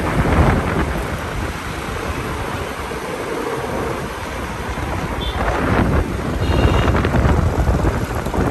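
Lamborghini Aventador S's V12 engine running as the car drives alongside, buried in heavy wind noise on the microphone. It swells louder briefly near the start and again about six seconds in.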